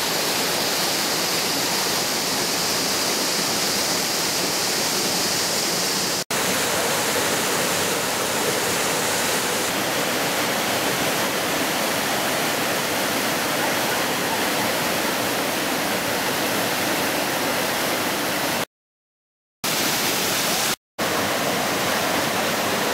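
Waterfall: a steady rush of water falling into its plunge pool. It drops out to silence for an instant about six seconds in, and twice more near the end, once for about a second.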